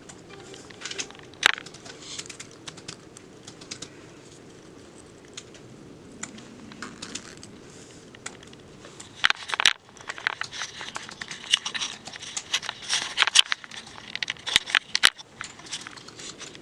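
Rustling, crinkling and sharp clicks close to the microphone, sparse at first and busiest from about nine to fifteen seconds in.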